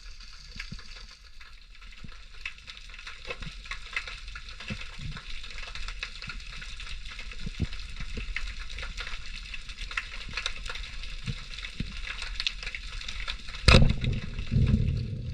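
Steady underwater crackling, a dense field of fine clicks. Near the end there is one sharp thump, followed by a low rumble.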